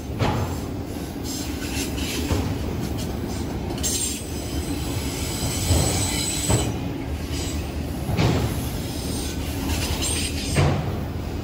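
Autorack cars of a CSX freight train rolling past close by. Their wheels knock heavily over the rail joints every couple of seconds, with brief high-pitched wheel squeals now and then.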